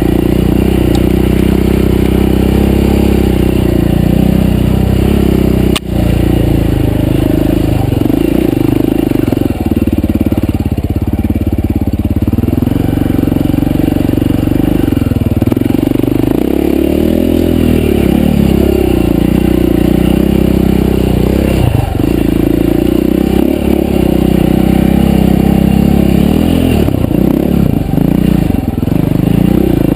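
Dirt bike engine running loud and continuous under riding load, its pitch rising and falling as the throttle is worked, with one brief dip in sound about six seconds in.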